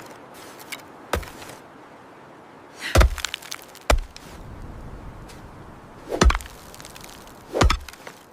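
Axe chopping wood: five sharp, uneven strikes on wood, the heaviest about three, six and seven and a half seconds in.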